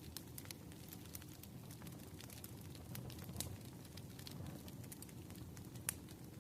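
Fire crackling with scattered sharp pops, one louder near the end, over a steady low rush of rain.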